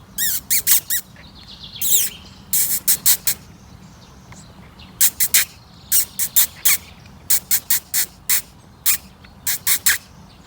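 Birds calling: short, sharp chirps in quick clusters of two to five, some with a quick downward sweep.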